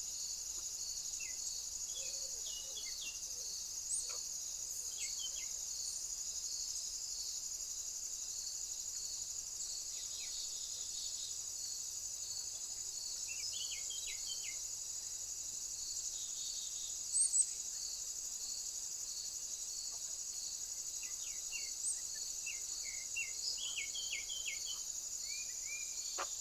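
Crickets chirping in a steady, high, continuous pulsing trill, with short bird chirps scattered through it and one brief knock about two-thirds of the way in.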